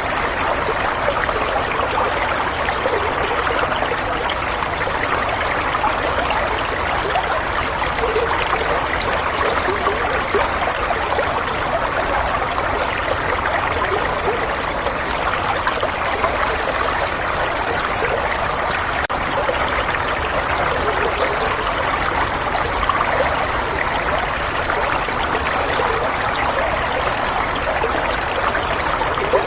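Running water flowing and trickling in a steady stream, an even rushing sound that does not change.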